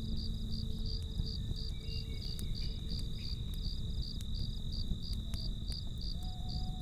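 Crickets chirping in an even pulse of about three chirps a second over a steady high trill, with a campfire crackling underneath in scattered sharp pops over a low steady rush.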